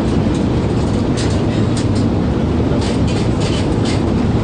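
Steady loud drone of an airliner's engines heard from inside the passenger cabin, with a few brief rustles or clicks over it.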